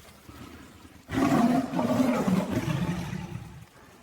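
A big cat growling and roaring, one rough, deep call starting about a second in and lasting about two and a half seconds.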